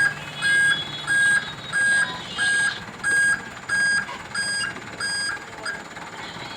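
Truck's reversing alarm beeping: about ten evenly spaced high beeps, roughly one and a half a second, that stop shortly before the end.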